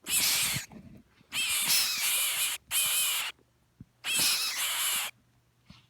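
Birds at a nest of nearly fledged young giving four harsh, hissing calls, each under about a second, with short gaps between.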